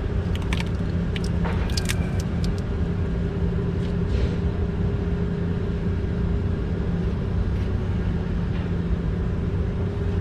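A steady low mechanical drone, as of a motor or engine running, with a few sharp clicks and taps of small parts being handled in the first few seconds.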